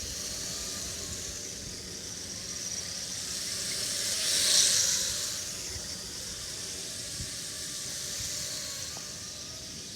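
Mini quadcopter (eWonderWorld Wonder Chopper fighter-jet drone) flying, its small motors and propellers giving a high whine and hiss. The sound swells to its loudest about halfway through, as the drone passes close, then eases off again.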